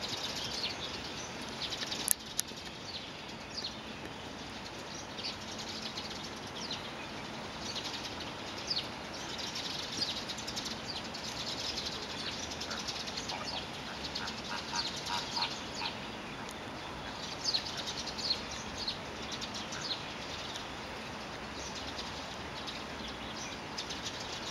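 Many short, high bird chirps and calls scattered throughout over steady background noise, with a sharp click about two seconds in.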